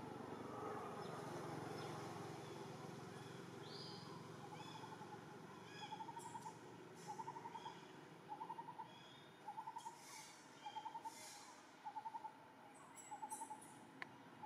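A bird in the background repeating a short trilled hooting call about once every second, starting about five seconds in, with faint higher chirps among the calls.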